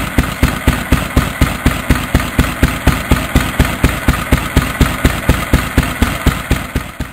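1920 International Harvester M Type 3hp single-cylinder stationary engine running steadily on a high-tension magneto and spark plug, firing about four times a second with an even, sharp exhaust beat.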